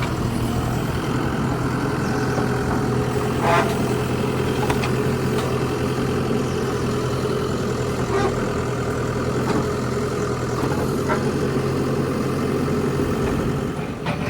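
Diesel engine of a Mahindra backhoe loader running steadily at low revs, with a few short knocks over the top.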